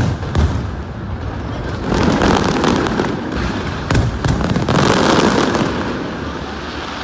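Fireworks display: sharp bangs of bursting shells, with two long stretches of dense crackling, and a loud bang about four seconds in.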